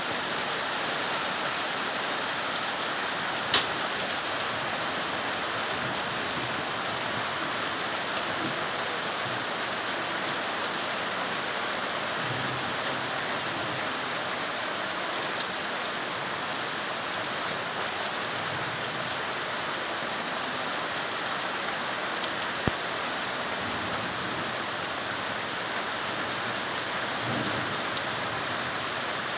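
Steady rain falling and pattering on surfaces, with a sharp click about three and a half seconds in and another near the end.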